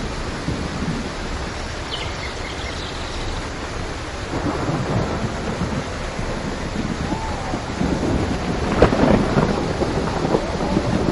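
Steady rain with rolling thunder: a low rumble swells a few seconds in, and a louder crack of thunder comes about nine seconds in.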